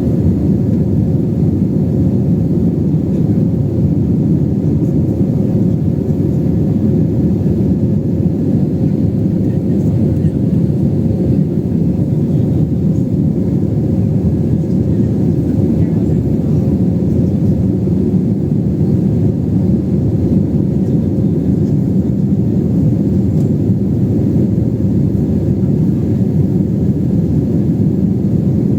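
Steady low roar of an airliner's jet engines and airflow heard inside the passenger cabin, unchanging in level and pitch, with a faint steady hum on top.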